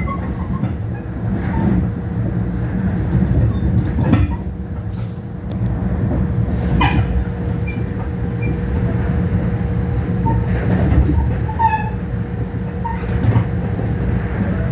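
Long Island Rail Road commuter train running at speed, heard from inside the car: a steady low rumble with a constant hum, broken by scattered clicks and a few brief squeaks from the wheels on the track.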